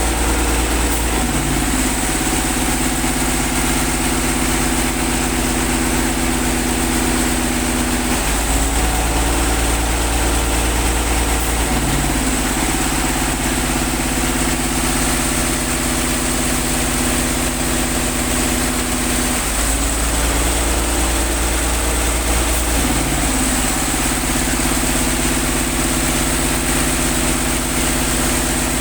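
Engine-driven air compressor running steadily for a borewell flush, its engine note shifting a little every few seconds, over a constant high hiss.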